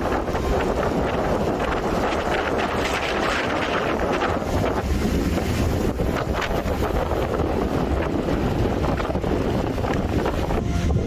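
Strong storm wind buffeting the microphone: a loud, steady rushing noise with short gusty crackles through it.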